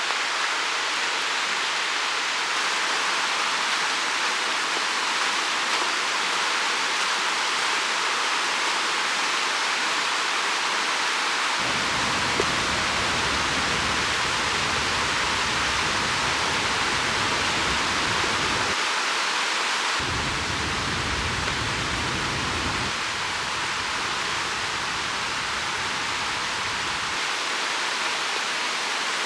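Steady rushing of a river flowing, an even water noise without a break. A low rumble joins underneath twice in the middle.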